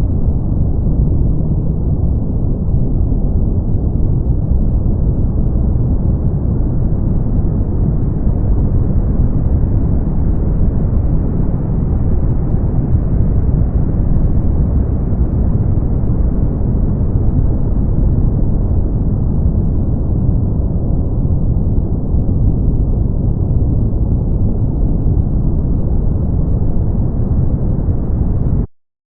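Brown noise: a steady, deep hiss with its energy in the low end and little above the midrange, which cuts off suddenly near the end.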